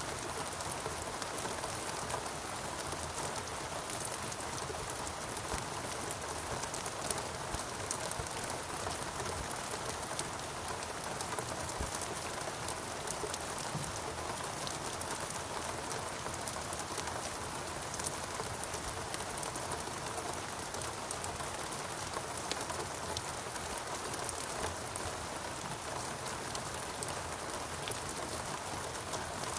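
Steady rain falling on foliage and surfaces, an even hiss with many small drop ticks.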